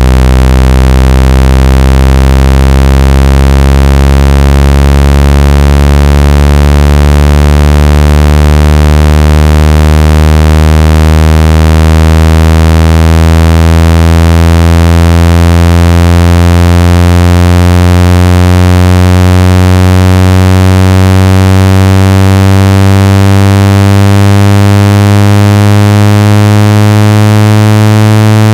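A phone speaker-cleaning tone: a loud, buzzy, synthesized low tone that rises slowly and evenly in pitch. It is played to vibrate the speaker and shake out water and dust.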